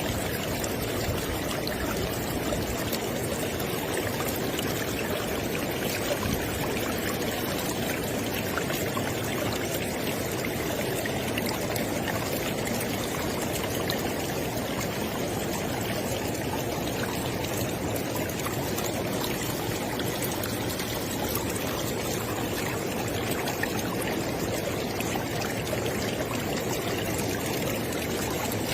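River or stream water flowing, a steady, even rush and burble.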